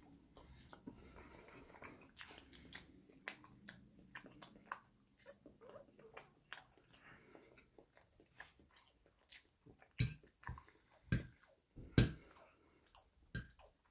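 Close-up chewing and wet mouth sounds of someone eating French toast and eggs. Near the end come four sharper knocks of a metal fork against a plate.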